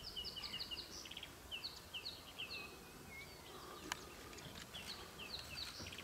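Birds chirping in the bush: runs of short, quick down-slurred notes, repeated in several bursts, with one sharp click about four seconds in.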